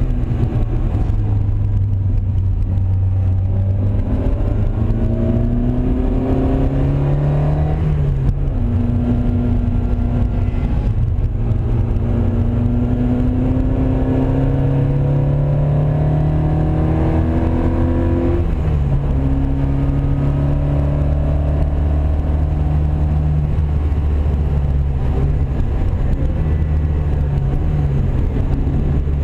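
Classic race car's engine heard from inside the cabin under hard acceleration. The pitch climbs steadily, drops abruptly at two gear changes (about eight and eighteen seconds in), then holds steady at speed.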